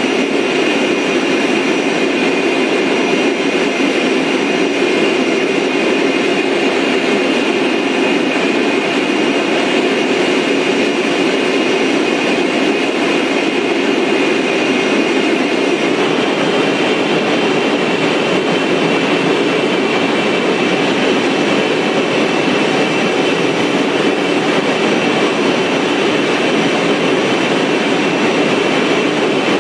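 Jet airliner engines and airflow: a steady deep rushing noise with a high engine whine on top, the whine stepping up a little in pitch about halfway through.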